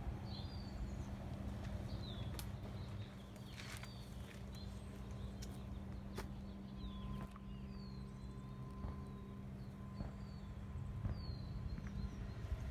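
Outdoor ambience: small birds chirping now and then in short, high, falling notes over a steady low hum, with a few faint knocks.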